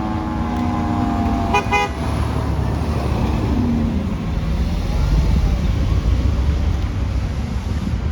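Fire apparatus siren sliding down in pitch as it winds down and fades over the first few seconds, with one short horn blast about a second and a half in. A heavy engine rumble and traffic noise run steadily underneath.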